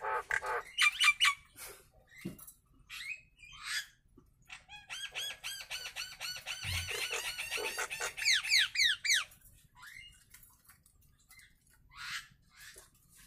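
Jalak nias bird calling: a few scattered harsh calls, then about four seconds of fast, rapidly repeated chattering notes that end in a quick run of falling whistles, followed by a few sparse calls.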